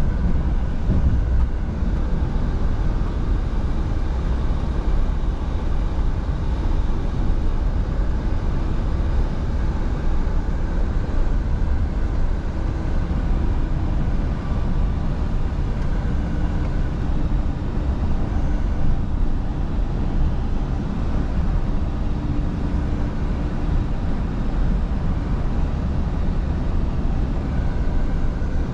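Scania V8 diesel truck engine running steadily under way, with a low drone and road noise throughout and no change in pitch.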